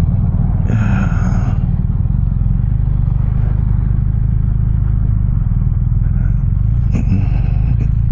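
BMW R1250RT's boxer-twin engine running with a steady low rumble under the ride. A brief higher-pitched tone cuts in about a second in and again near the end.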